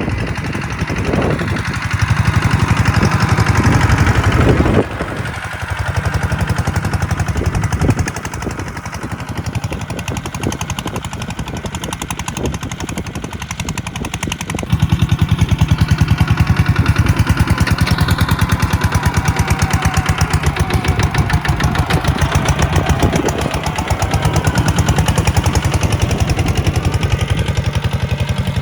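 Kubota tractor's diesel engine running with a rapid, even pulse, its loudness stepping up and down several times as throttle and load change.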